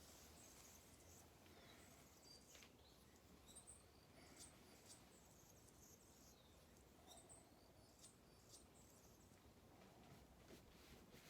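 Near silence, with faint, scattered high chirps of small birds and a few faint clicks.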